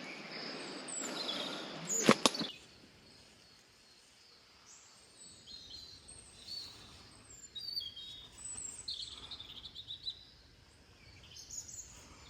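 Forest birds calling with short, high chirps and quick whistled notes over quiet background. For the first two seconds a broad rustling noise covers them, ending in a few sharp clicks.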